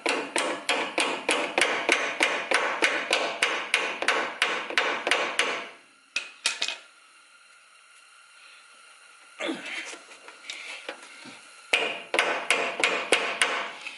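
Rapid hammering, about four strikes a second, from a hand tool used as a hammer to tap the brake hose retaining clip home in its bracket on a pickup's front brake. The strikes stop about six seconds in and resume for the last two seconds.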